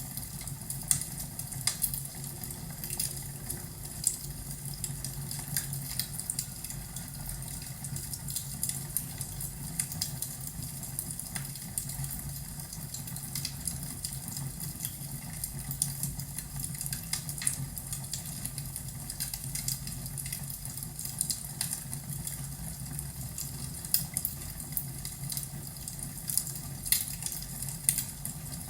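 Wood fire crackling in a fireplace: irregular pops and snaps, a few louder than the rest, over a steady low hum.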